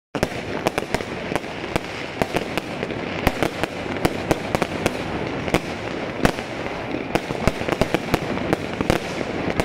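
Fireworks going off all around: a steady crackling din with many sharp bangs, several a second, overlapping one another.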